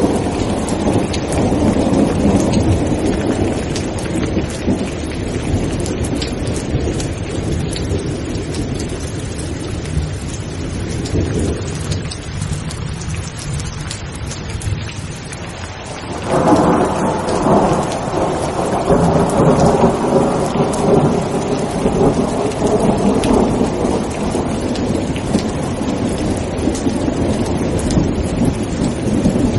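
Steady heavy rain with rolling thunder. The rumble dies down towards the middle, then a new loud thunderclap breaks about halfway through and rumbles on.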